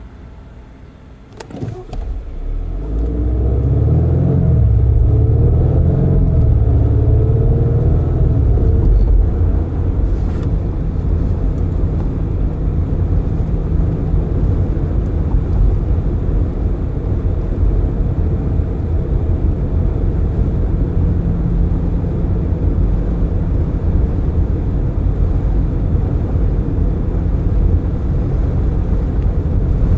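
Car pulling away and accelerating, heard through open windows: the engine pitch climbs in a few successive rises over the first several seconds. It then settles into steady tyre and road noise at cruising speed.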